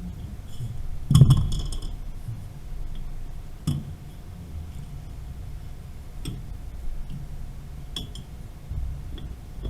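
Metal clinks and knocks from tools and pipe fittings during valve replacement work. The loudest strike comes about a second in and rings briefly, followed by three or four separate sharp taps.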